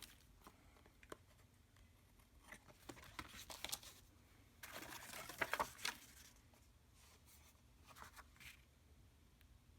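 Paper and card being handled: soft rustling with light taps and clicks, with short louder rustles about three seconds in and again about five seconds in.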